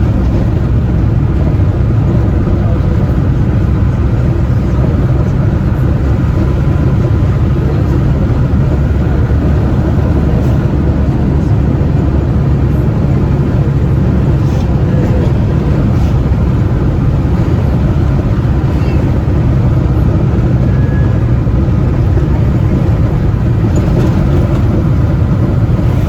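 Steady low rumble of a moving vehicle, road and wind noise with no breaks or changes.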